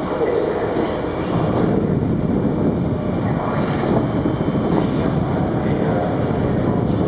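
NS VIRM double-deck electric train running past, a steady noise of its wheels on the rails.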